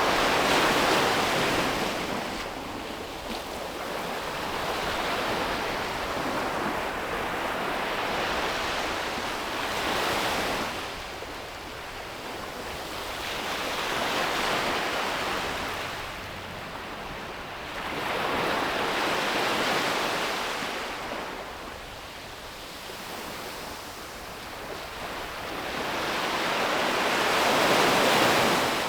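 Ocean surf: waves breaking and washing up the beach in slow surges every few seconds, each swelling up and then falling away. The loudest wave comes near the end.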